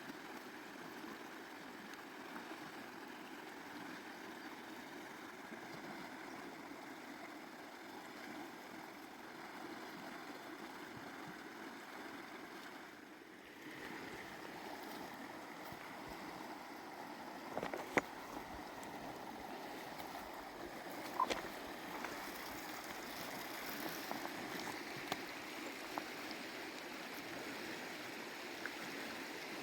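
Stream water running steadily, with a few sharp knocks about 18 and 21 seconds in.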